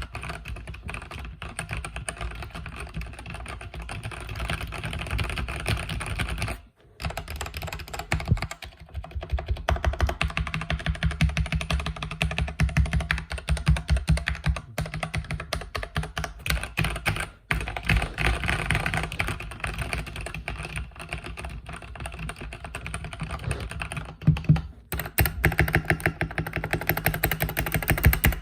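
Continuous fast typing on a mechanical keyboard with red (linear) switches: a dense run of key clacks, broken by short pauses about a quarter, two-thirds and seven-eighths of the way through.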